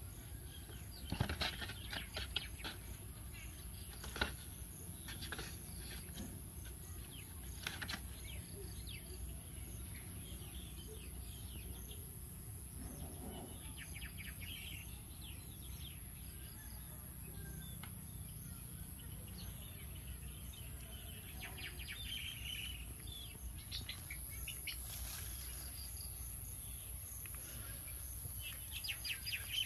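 Scattered short bird chirps over steady outdoor background noise, with brief clusters of sharp clicks now and then.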